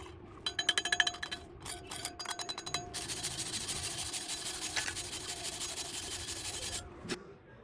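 Quick metallic taps on steel with a ringing tone, then a steady scratchy scrubbing of bristles on metal that stops about seven seconds in: slag being chipped and wire-brushed off a fresh weld.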